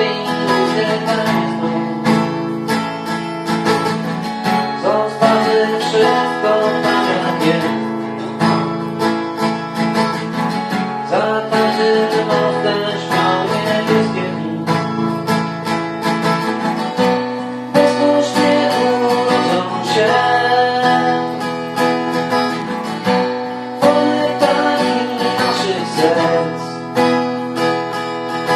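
Instrumental passage of a song, led by plucked and strummed acoustic guitar with backing accompaniment.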